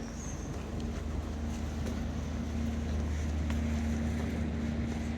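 Boat engine running with a steady low hum, with wind on the microphone over the lagoon.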